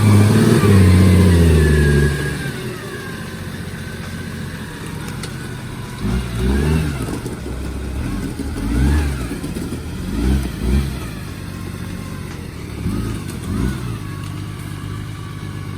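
Off-road vehicle engine revving hard for about two seconds, then running lower with a series of short revs every second or two.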